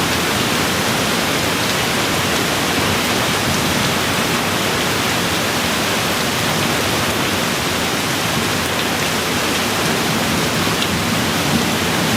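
Steady rain falling as an even hiss. A low thunder rumble dies away at the start and begins to build again near the end.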